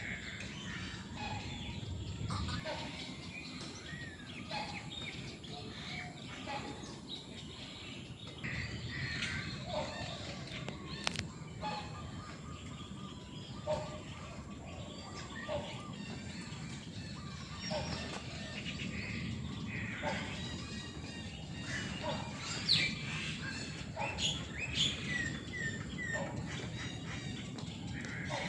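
Mixed birds in an aviary chirping and calling, many short calls overlapping, with a quicker run of sharp high chirps near the end, over a steady low background rumble.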